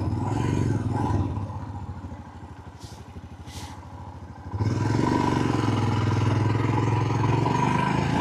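Motorcycle engine and wind noise on a riding microphone. About a second in, the sound drops to a quieter, low, even pulsing with two short hisses, then comes back loud and steady about four and a half seconds in.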